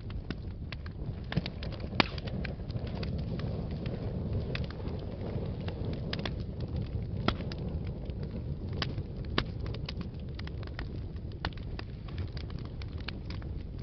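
Wood fire burning in a fireplace: a steady low rumble of flames with irregular sharp crackles and pops, the loudest pop about two seconds in.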